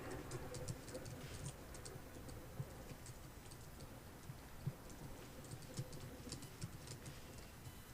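Soft, irregular clicking of computer keyboard keys, faint, over a low steady hiss of background rain.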